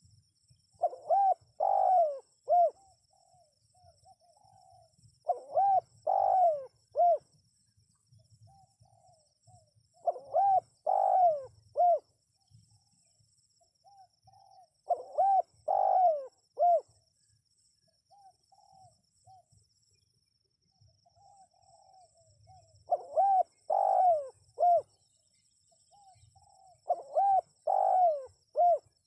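Spotted dove (tekukur) cooing: a phrase of several coos repeated six times, about every four to five seconds, with a longer pause midway. A faint steady high-pitched trill runs underneath.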